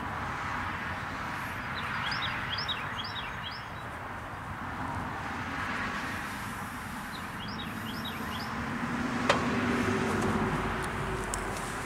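A small bird chirping in two short bursts of quick rising notes over a steady rushing background noise, with a single sharp click about nine seconds in.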